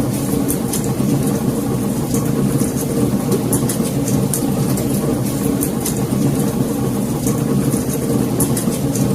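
Wood fire burning in a fireplace: a steady low rumble with frequent, irregular small crackles and pops.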